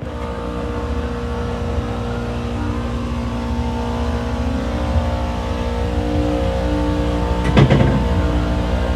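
Steady machine hum and whine from a motor running, growing louder in the first second and then holding, with a short clatter about seven and a half seconds in.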